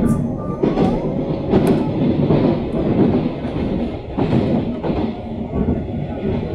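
Taiwan Railway EMU700 electric multiple unit running at speed, heard from inside the carriage: a steady rumble of wheels on the track, broken by a few brief clacks.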